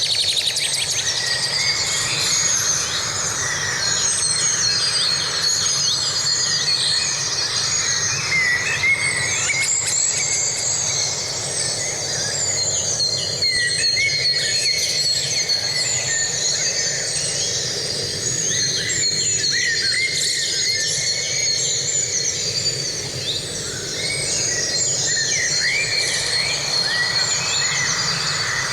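Forest ambience: a dense chorus of many birds chirping and calling, over a steady high-pitched insect trill.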